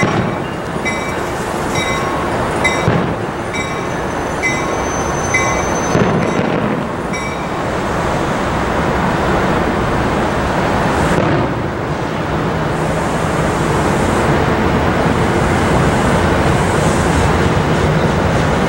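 A train passing at close range. For the first seven seconds or so a high ding repeats about every two-thirds of a second, then a steady rush of rail noise carries on.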